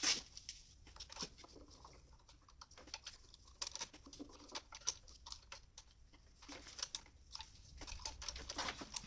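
Irregular light metallic clicks and taps of a steel injector fuel-line fitting and hand tools being worked on the engine, the loudest click right at the start.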